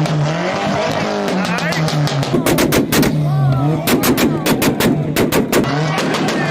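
Rapid volleys of loud exhaust pops and bangs from a car held on a two-step launch limiter, coming in bursts about two seconds in and again from about four seconds, over background music.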